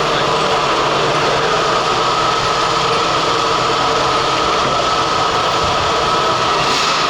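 Radio-controlled pulling vehicle's motor running steadily under load, with a continuous high whine over a dense mechanical noise.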